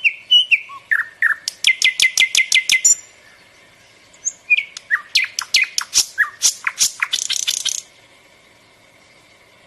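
Nightingale singing two phrases about a second and a half apart. Each phrase is a few short whistled notes running into a fast series of hard, rattling clicks, about eight a second. The song stops about two seconds before the end.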